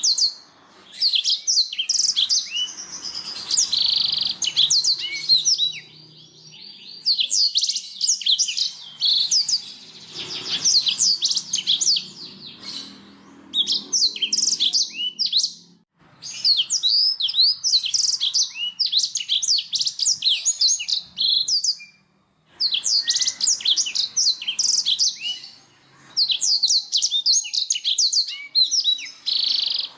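Canary singing: long phrases of fast, high chirping trills, broken by short pauses several times.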